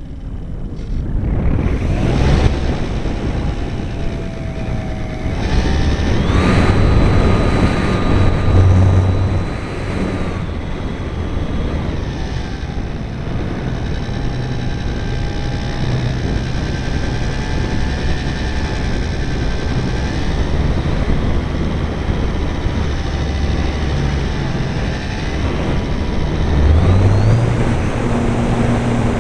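RC model airplane's motor and propeller running under a steady rush of wind noise. The whine steps up in pitch about six seconds in, drops back near ten seconds, and climbs again near the end as the throttle changes.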